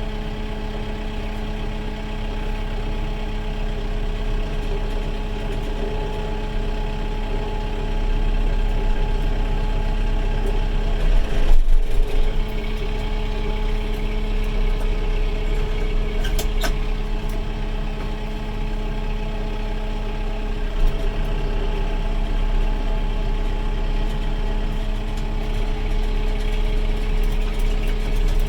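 Kubota 70-horsepower tractor's diesel engine running steadily while it works the loader against cedar trees, a little louder from about eight seconds in. A few short knocks and clatters come partway through.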